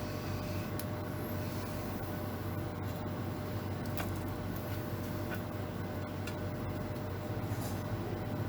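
Steady low hum and hiss of machine or room noise, with a few faint clicks.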